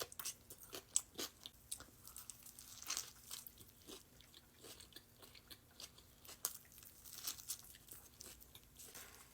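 A person chewing a turkey sandwich on a croissant up close: crisp crunches and wet mouth clicks, growing sparser near the end.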